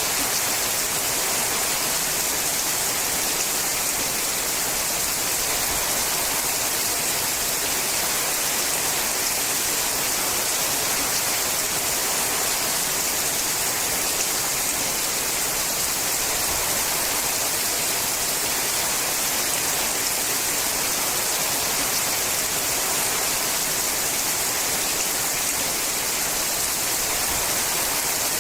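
Rain falling on a sheet-metal roof: a steady, even hiss of drops that does not let up.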